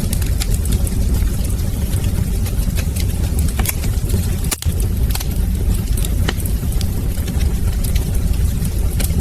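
Wood fire crackling: irregular sharp pops and snaps over a steady low rumble of burning, with the sound cutting out for an instant about halfway through.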